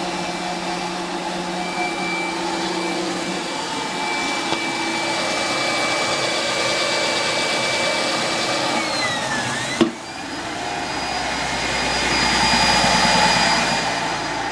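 Mercedes-Benz C240's 2.6-litre V6 idling roughly, a steady mechanical whine over its running; the whine sags in pitch about nine seconds in, a sharp click follows, then the whine comes back and the sound swells louder for a few seconds. The rough idle turned out to be caused by a failing fuel pump.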